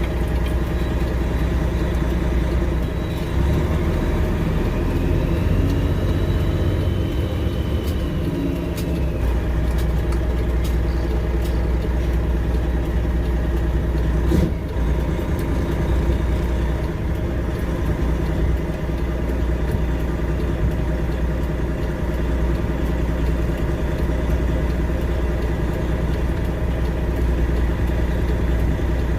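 Freightliner Classic XL semi-truck's diesel engine running steadily with a low drone. A faint whine rises and falls over several seconds a few seconds in, and a single knock comes about halfway through.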